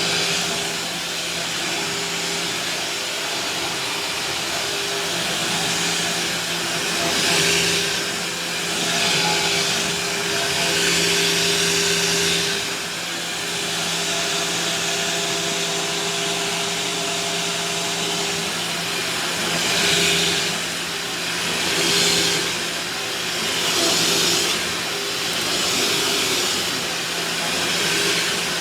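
Vacuum cleaner running steadily over a kitchen floor: a constant motor hum under an airflow hiss that swells every couple of seconds as the nozzle is worked back and forth.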